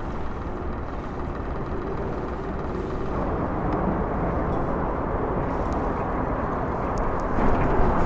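Sailboat under way on its inboard engine: a steady low rumble of engine and water noise.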